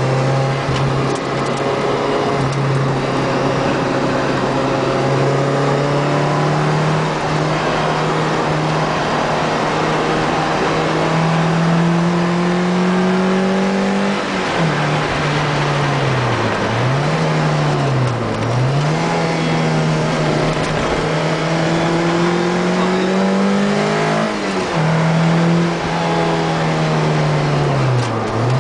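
Car engine heard on board at racing speed on a circuit, its pitch climbing slowly as it pulls, then dropping sharply and recovering several times as it shifts down and accelerates out of corners.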